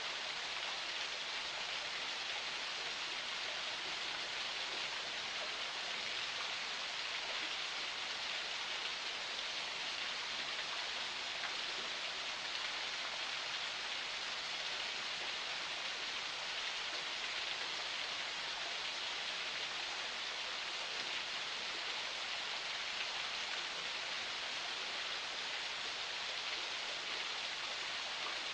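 Water of a forest spring flowing, a steady, even splashing hiss with no breaks or changes.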